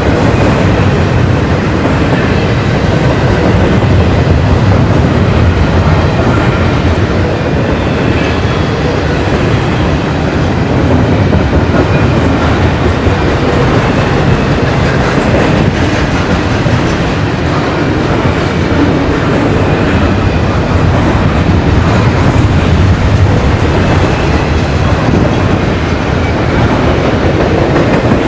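Railroad cars rolling past on the rails with a steady, loud clickety-clack, with a faint high wheel squeal.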